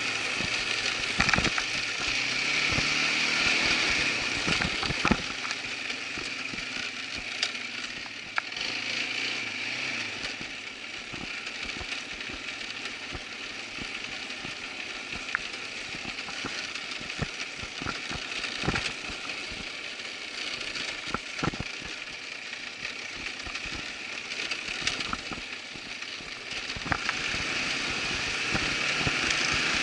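Irbis ATV 200 quad bike's engine running, quieter through the middle and louder again near the end, with scattered knocks and rattles throughout.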